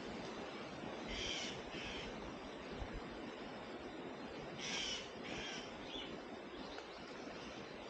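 A bird calling with short, harsh calls: two about a second in, then three more near the middle, over a steady background hiss.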